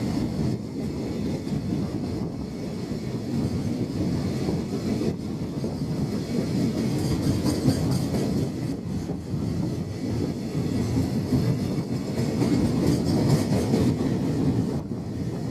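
Freight train hauled by a JR Freight EF210 electric locomotive rolling past, a steady rumble of wagons with wheels clacking over the rail joints.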